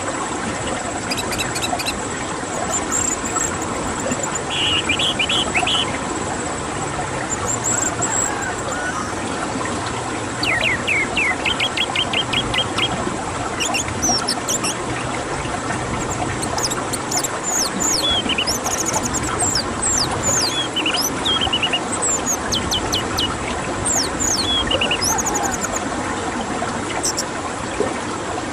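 Songbirds singing: rapid trills and many quick downward-sweeping whistles and chirps, over a steady hiss.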